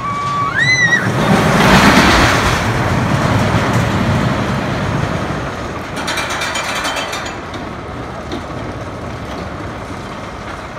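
Roller coaster train running past on its track with a rumble that builds to a peak about two seconds in and then fades. About six seconds in there is a burst of rapid mechanical clicking, like a ratchet.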